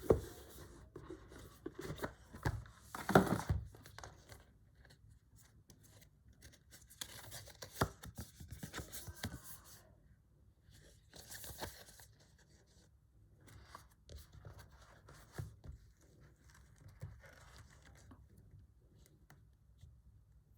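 Packaging and accessories of in-ear monitors being handled: irregular rustling and crinkling with sharp knocks and clicks. The loudest burst comes about three seconds in, and the handling grows sparser and quieter in the second half.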